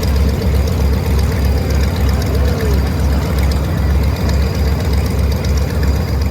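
Yakovlev Yak-50's nine-cylinder radial engine idling, a loud, uneven low throb that pulses about three times a second.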